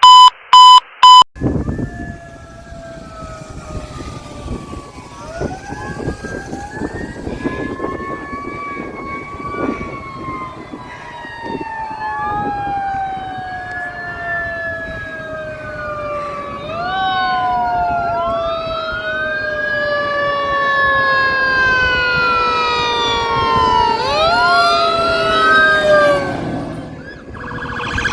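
Fire apparatus sirens wailing on an emergency response, several overlapping siren tones sweeping up and down, one of them sliding slowly down in pitch and jumping back up twice. A few short beeps at the start.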